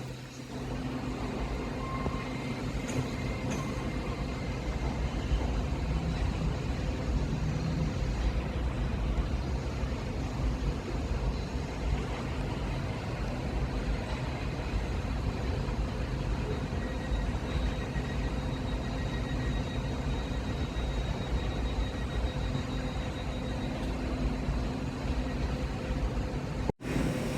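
A train running at a station platform, a steady low rumble with a faint high whine in the middle stretch, cutting out for an instant near the end.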